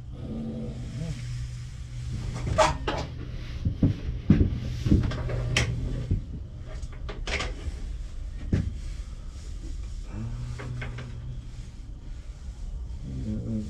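Scattered wooden knocks and clicks, as of cedar pieces being handled and set down, over a steady low hum.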